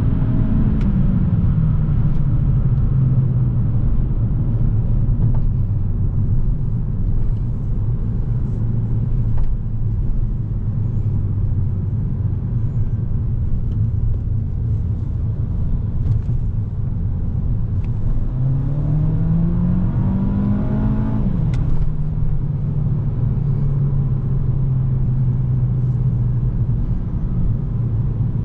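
Volkswagen Golf VI's 1.4 TSI four-cylinder engine running under way over steady road and tyre noise. The engine note falls at the start and holds steady while cruising. Near the end it climbs under acceleration for about three seconds, then drops sharply as the DSG gearbox shifts up, and holds steady again.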